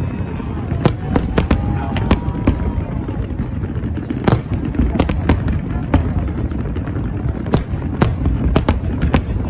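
Aerial fireworks display: a continuous low rumble of bursts, with many sharp bangs at irregular intervals.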